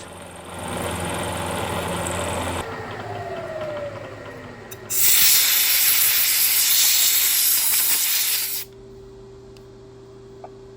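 Milling machine finishing a pass through a steel key blank into the aluminium below it. It stops cutting about two and a half seconds in and winds down with a falling whine. About five seconds in a loud, steady hiss runs for roughly three and a half seconds and stops suddenly, leaving a steady hum with a faint tone.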